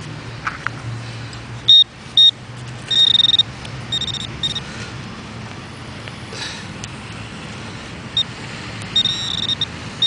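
Handheld metal-detecting pinpointer beeping in short, irregular high-pitched bursts, some beeps held for about half a second, as it is brought near a metal target in the dig hole.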